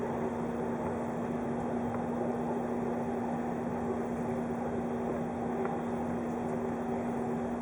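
Steady running noise inside a moving 583 series electric train car, with a constant hum under an even rumble.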